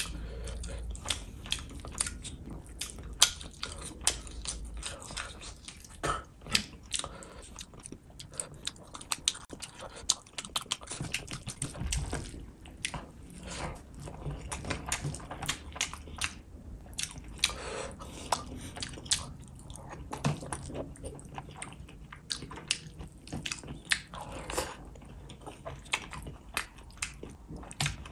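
A person chewing fish and rice eaten by hand, with frequent irregular wet mouth clicks.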